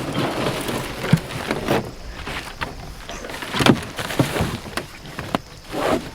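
Kayak being paddled or launched: water splashing with irregular knocks of the paddle against the hull.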